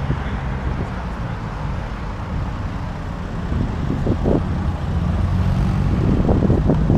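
Car engines and exhausts rumbling, getting louder through the second half with a few brief surges.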